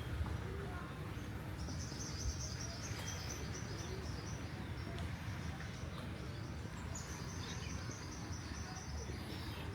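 A bird calling in two long runs of rapid, high chirps, each starting a little higher and then settling. Under them runs a steady low outdoor rumble.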